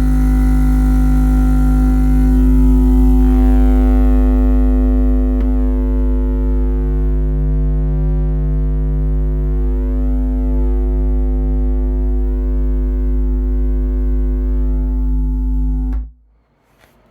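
Subwoofer in a sixth-order bandpass box playing a loud, steady deep bass tone on about 40 watts, with a buzz of overtones above it. It cuts off suddenly near the end.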